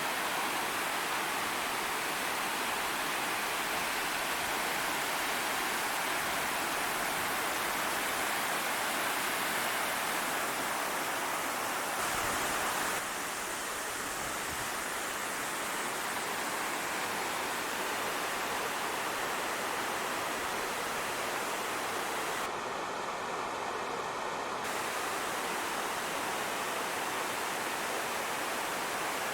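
Anna Ruby Falls' twin waterfall cascade: a steady, even rush of falling water, running a little lower in the dry-season drought. The rush drops slightly in level about halfway through.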